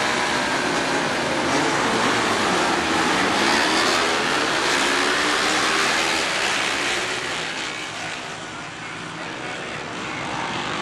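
A pack of road-racing motorcycles at full throttle, many engines revving together and rising in pitch through the gears. It fades a little about eight seconds in, then builds again.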